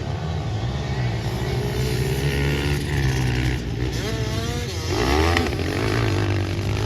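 Pit bike engines running and revving during a race, with a steady low drone and pitch that rises and falls sharply about four to five seconds in.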